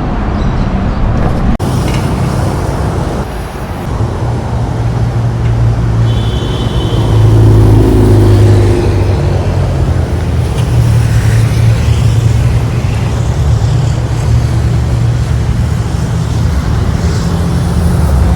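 Road traffic: a steady low rumble of vehicles going by, swelling to its loudest about seven to nine seconds in as a heavier vehicle passes.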